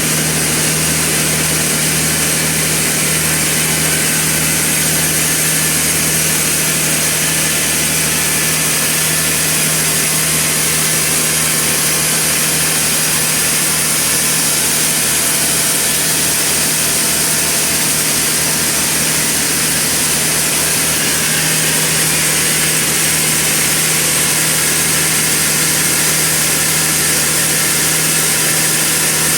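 Sawmill machinery running steadily: a continuous loud mechanical noise with a steady low hum under a dense hiss.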